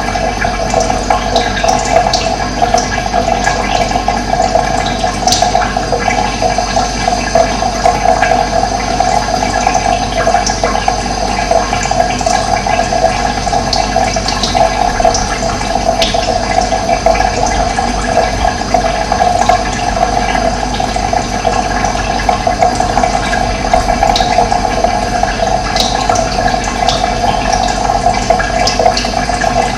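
Running water flowing steadily, with brief bird chirps scattered over it.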